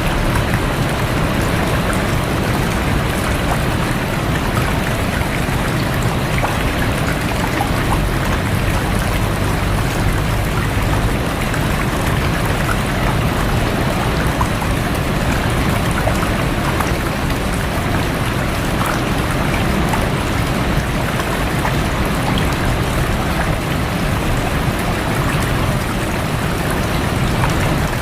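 Rain falling on a rushing stream: a steady, even rush of water with the patter of raindrops.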